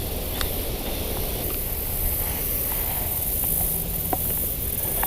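Steady outdoor noise: a low rumble and a high hiss, with a few faint clicks.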